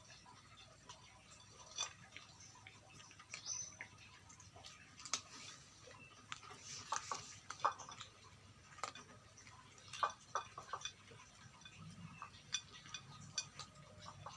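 Dogs chewing and crunching whole quail: irregular sharp cracks and crunches of small bones, uneven and bunched together in places.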